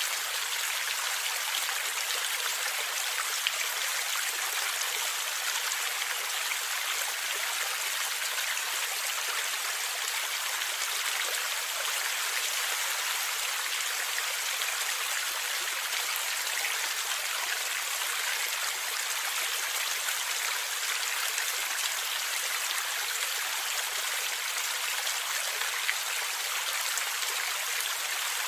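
Stream water flowing and gurgling steadily, an even rushing hiss with little bass.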